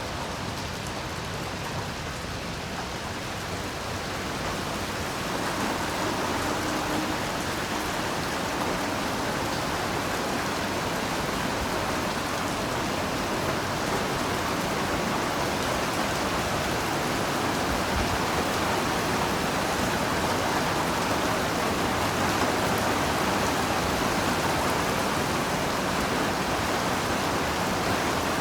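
Heavy rain falling steadily, a dense, even hiss that grows somewhat louder a few seconds in and then holds.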